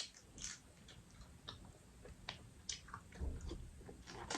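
Close-up eating sounds: chewing crab meat with small wet clicks and crackles of shell.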